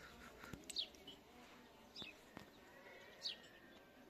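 A bird calling: three short, high chirps, each falling in pitch, a little over a second apart, over a faint, quiet background.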